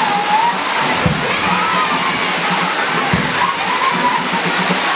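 Heavy rain pouring down in a steady, loud hiss, with faint voices in the background and two dull low thumps.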